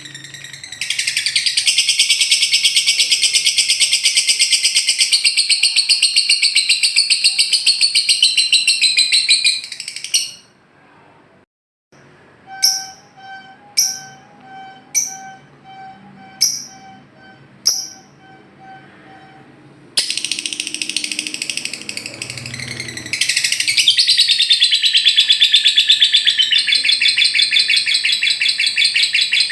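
Lovebird 'ngekek' song: long, very fast chattering trills. Near the middle the trilling stops briefly and gives way to half a dozen separate sharp chirps over a steady lower note, then the fast trilling resumes.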